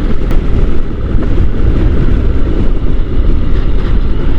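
Wind rushing and buffeting over the microphone while riding a Honda NC750 motorcycle, its engine running underneath at a steady pace.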